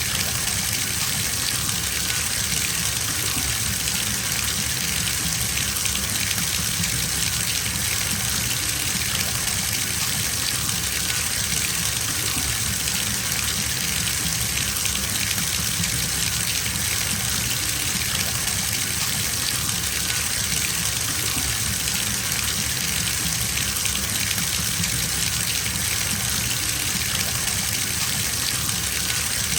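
Water running steadily from a bathtub tap into a filling tub: an even, unbroken gushing hiss.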